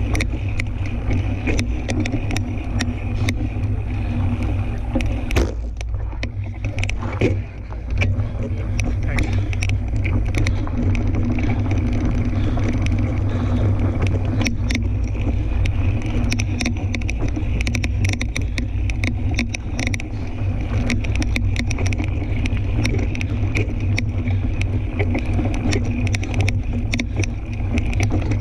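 Fat-tire tandem mountain bike riding a dirt trail: a steady low rumble of wind and tyres on the microphone, with frequent clicks and rattles from gravel and the bike, easing briefly a few seconds in.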